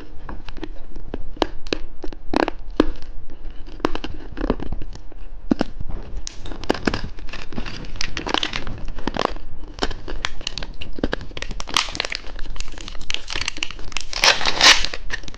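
Plastic candy wrappers crinkling and tearing as sweets are unwrapped, in irregular sharp crackles that grow denser near the end.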